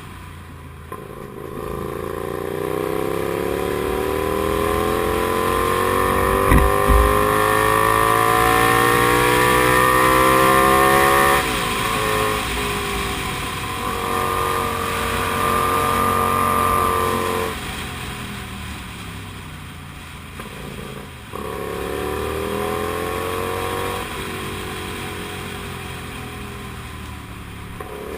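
Comet GTR 250 motorcycle's V-twin engine under way: it climbs steadily in revs for about ten seconds, shifts gear, holds steady, eases off and then pulls up through the revs again near the end. A couple of low thumps come about six and a half seconds in.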